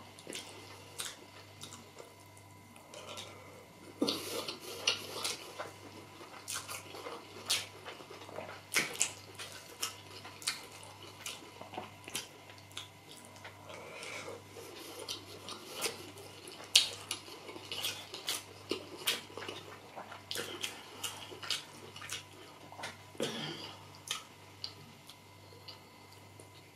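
Close-miked chewing of soft rice and beans porridge, with irregular wet lip smacks and mouth clicks. A faint steady hum runs underneath.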